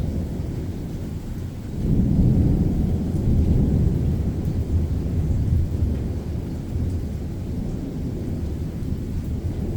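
Thunder rumbling: a low rumble that swells suddenly about two seconds in, holds for a few seconds, then slowly dies away, with rain in the background.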